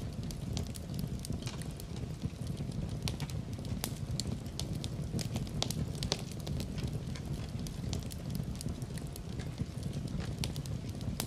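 Fireplace fire crackling: irregular sharp pops and snaps over a low, steady rumble of the flames.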